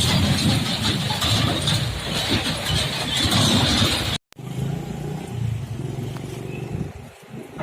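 Loud passing vehicle noise, a dense rumble with a hiss on top, that cuts off abruptly about four seconds in; it is followed by quieter sound with a low steady hum.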